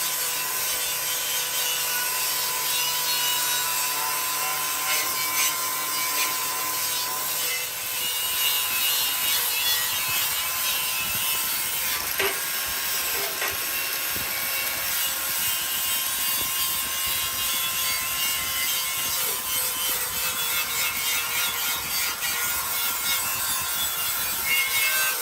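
Steady abrasive rubbing, like sanding or scraping a surface, with a faint steady hum beneath it.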